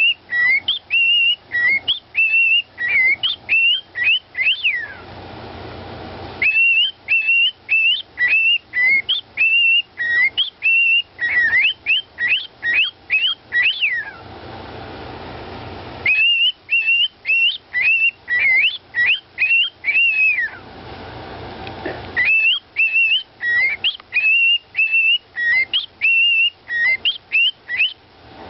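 Parrot whistling a short melody of quick rising and falling notes, repeating it in four bouts with brief pauses between.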